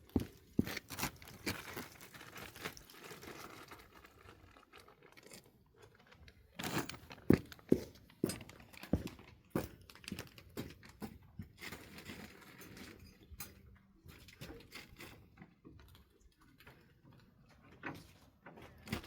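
Irregular wooden knocks, clatter and scrapes of pallets being shifted and set in place, with a cluster of louder knocks about seven seconds in.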